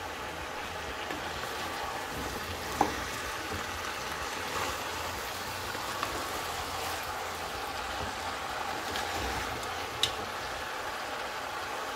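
Cabbage, peppers, onions and fried turkey wings sizzling steadily in a hot pot as a wooden spoon stirs them, with two sharp knocks of the spoon against the pot, about three seconds in and near the end.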